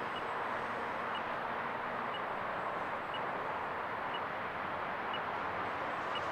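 Electric-powered RC P-47 warbird's motor and propeller whining in flight at a distance. The faint whine fades away about two seconds in, leaving a steady rushing noise.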